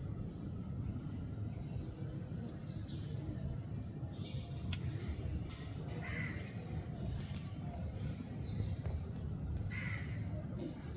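Birds calling: a run of quick high chirps in the first half, with harsher calls about six and ten seconds in, over a steady low rumble.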